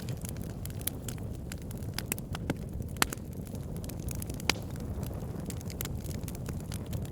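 Burning wood logs crackling over a steady low rumble of flames, with frequent small snaps and two sharper pops, about three and four and a half seconds in.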